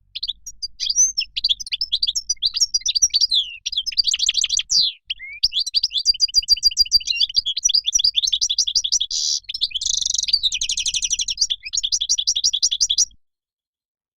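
European goldfinch song: a fast, continuous run of twittering trills and sharp chirps, with two short breaks early on. It cuts off suddenly about a second before the end.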